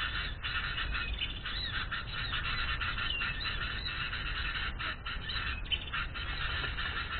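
Small birds calling in a dense, continuous chatter of short, high chirps.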